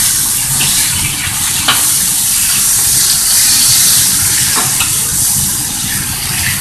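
Chicken breast pieces sizzling loudly in hot oil in a wok, with a few scrapes and clicks of a metal spatula against the wok as they are stirred.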